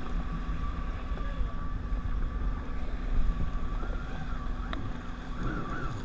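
Jet ski engine running steadily, a constant low rumble with a steady whine above it, with wind buffeting the microphone.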